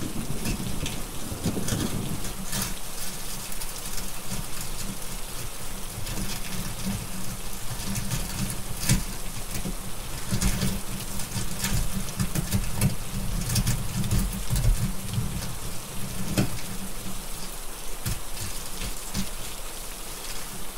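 Steady rain hiss with a rumble of thunder in the first couple of seconds that then settles to a low background rumble, and frequent sharp crackles from a wood fire.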